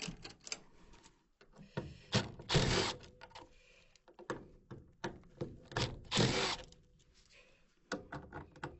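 Hand tools clicking and knocking on a gas furnace's sheet-metal collector box and screws as it is being taken off. Two louder, rougher stretches of under a second each come about two and six seconds in.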